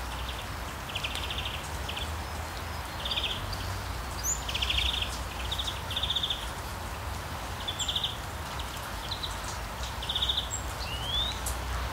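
Short buzzy bird calls repeating every second or so, with a couple of rising whistle notes near the end, over a steady low rumble.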